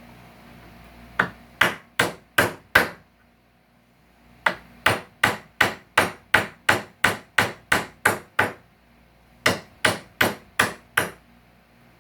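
Hammer blows in three quick runs, about three sharp strikes a second, working at a stubborn nail or staple in salvaged wood.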